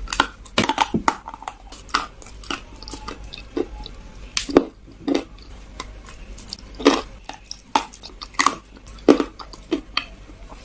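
Close-up chewing of kalaba, baked kaolin clay: a series of irregular, sharp crunches as the dry chalky pieces are bitten and ground.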